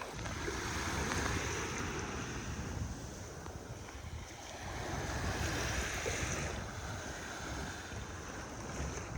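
Sea waves washing onto a beach, the surf swelling about a second in and again around five to six seconds in, with wind buffeting the microphone.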